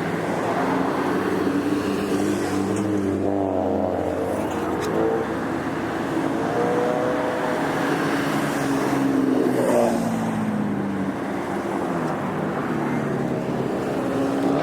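Car engines running and revving, their pitch rising and falling as they accelerate and let off, with a strong rise and fall about two-thirds of the way in.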